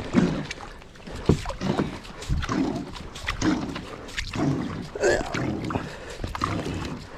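Handling noise on a kayak while a crab pot is hauled up: irregular knocks and clicks against the hull, with water splashing and dripping.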